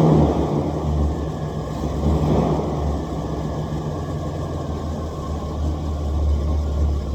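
The 1984 Buick LeSabre's 3.8 V6 running just after a cold start, easing down from higher revs in the first second and then idling steadily.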